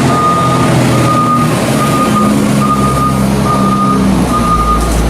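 Reversing alarm on a diesel machine rolling a maize silage clamp, giving a steady high beep about once a second over the engine. The engine note changes as the machine shunts back and forth, and the low rumble grows louder about four seconds in.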